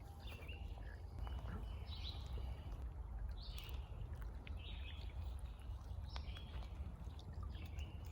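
Birds calling in a forest, short calls repeating about once a second, over a steady low rumble.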